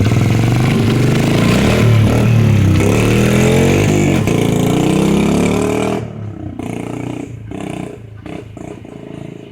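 Dirt bike engine revving up and down several times, loud and close, then dropping off sharply about six seconds in to a much quieter, uneven sound.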